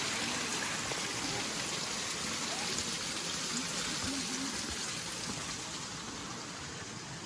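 Steady rush of falling water from a waterfall, growing a little fainter near the end, with faint voices in the background.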